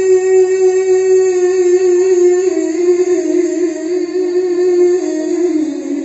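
A male Qur'an reciter's voice holding one long melodic note in mujawwad style: level at first, then wavering through ornamented turns and stepping down in pitch from about two and a half seconds in.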